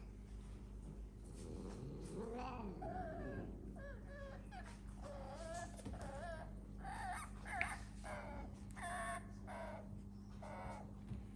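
A cat calling over and over: short, high-pitched mewing cries, roughly one a second, starting a couple of seconds in, over a faint steady hum.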